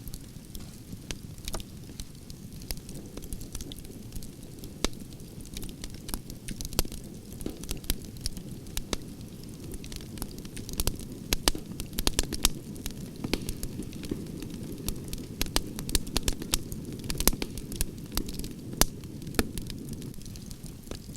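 Wood logs burning in a campfire: a steady low rumble of flame with irregular sharp crackles and pops, busiest in the middle stretch.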